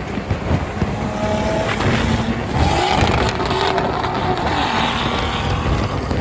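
Car engines running at a car meet, with wind noise on the microphone. A few short pitched tones come and go over a steady rumble.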